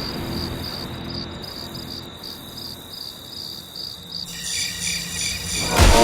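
Cricket chirping sound effect: a steady, pulsing high trill over the fading tail of a low rumble. About four seconds in, a second pulsing pattern of higher tones comes in.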